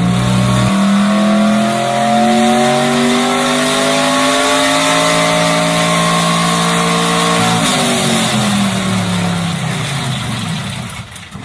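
Car engine pulling hard under acceleration, its pitch climbing steadily for about seven seconds, then dropping sharply and sliding lower as the engine slows before fading near the end.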